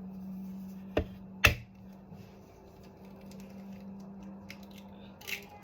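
Two sharp knocks about half a second apart, the second louder, over a steady low hum.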